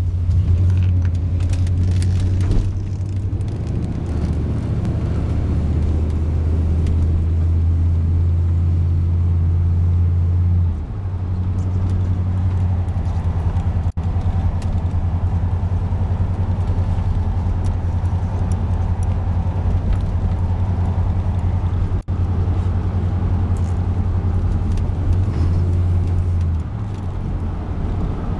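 1989 Chevrolet Silverado pickup driving, its engine making a steady low drone. The drone dips and shifts pitch about eleven seconds in and again near the end, and the sound breaks off for a split second twice.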